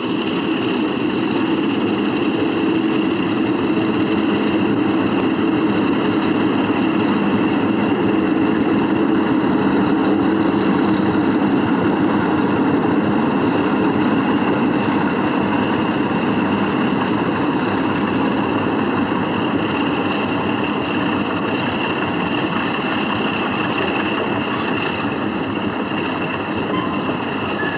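Diesel locomotive running, a steady engine drone with train noise.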